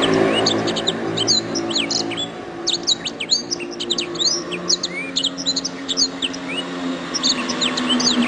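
Domestic canary singing a fast, continuous run of chirps and quick rising and falling notes, over a steady low hum.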